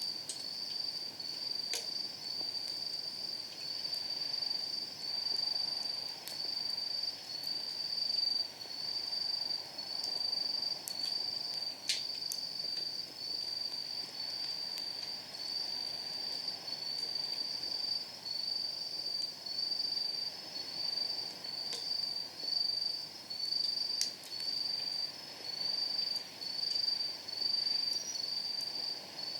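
Night insects singing steadily in a high, regular pulsing rhythm, with a few sharp pops of burning firewood crackling in a steel fire pit, the strongest about twelve seconds in.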